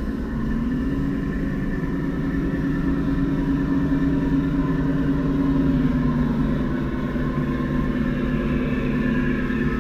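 G-scale LGB model locomotive running on the track: a steady electric motor and gear whine, its pitch easing down a little about six seconds in.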